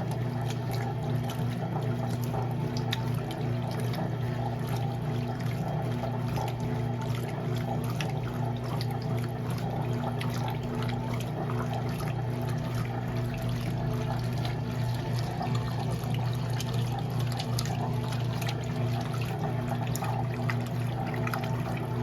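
Electrolux top-load washing machine running with water pouring and sloshing in the tub over a steady electric hum.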